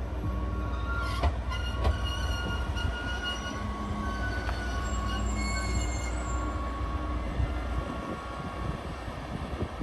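A train running on rails, its wheels squealing in several high, steady tones over a low rumble that fades away about eight seconds in.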